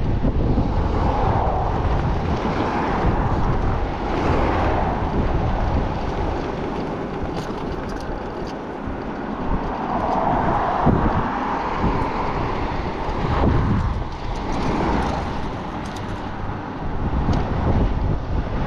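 Wind buffeting the microphone of a moving e-bike, a steady low rumble over road noise, with several broad swells that rise and fade.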